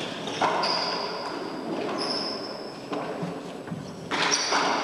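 Four-wall handball rally: about three sharp smacks of the ball against the court walls, echoing in the enclosed court, with short high squeaks of shoes on the floor.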